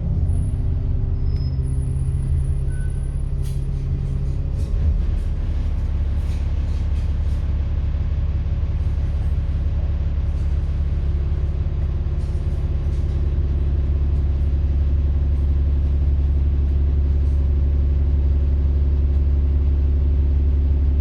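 A diesel bus engine running steadily, with a strong low drone that grows heavier about halfway through. A thin high whine sounds for the first few seconds, and light rattling clicks come in a few seconds later.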